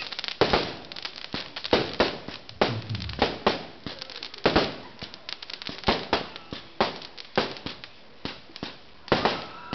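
Aerial fireworks shells bursting in an irregular string of sharp bangs and crackling reports, several loud ones close together, easing off a little late on before more loud bursts near the end.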